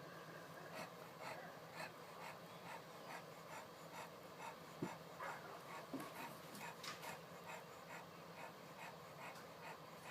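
Faint rhythmic panting, a little over two breaths a second.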